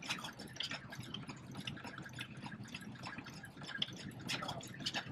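Vintage stationary engine running, with a dense, irregular clatter of clicks and taps over a low rumble.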